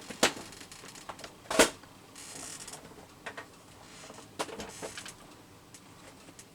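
Clicks and knocks of small craft supplies being handled while rummaging for metal brads, with a short rustle a little after two seconds.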